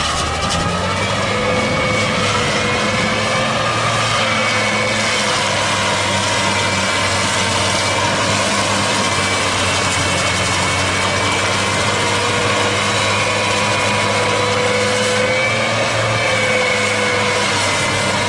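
Engine of a piece of heavy farm machinery running steadily, with a high whine over the drone that wavers slightly in pitch.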